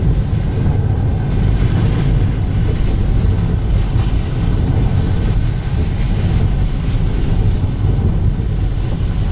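Steady, loud low rumble of road and wind noise inside a moving car's cabin.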